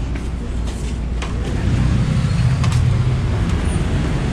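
Motor vehicle engine running, a low steady drone that grows louder about halfway through.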